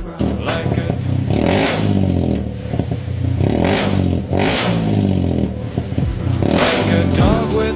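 Datsun car's engine revving repeatedly through an aftermarket NDK exhaust, the pitch rising and falling with each blip of the throttle, with several sharp bursts along the way.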